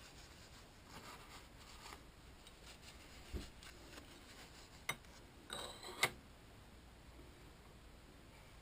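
Quiet handling noise from clearing metal chips at a machine vise: faint rubbing and brushing, with a few sharp small clicks and knocks around the middle, the loudest about six seconds in.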